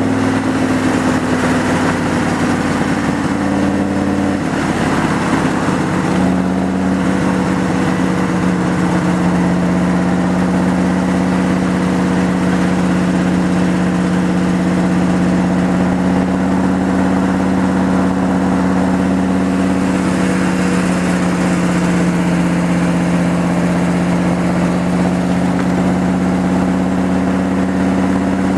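Superformance Cobra's 7.0-litre V8 running steadily under way, heard from the open cockpit over a rush of wind and road noise. The engine note drops about four to six seconds in, then holds steady.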